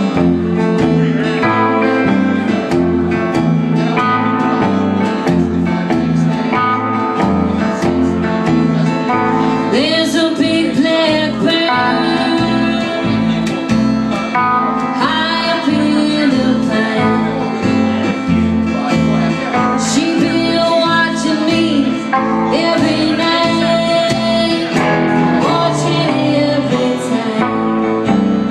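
Live country song with guitar accompaniment and a low bass line. A woman's singing voice comes in about ten seconds in.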